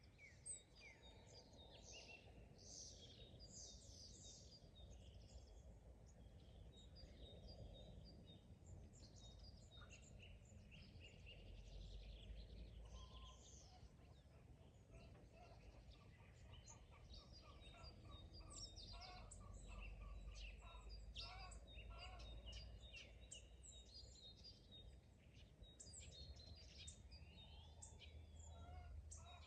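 Faint birdsong: several small birds chirping and trilling over one another, over a low steady rumble.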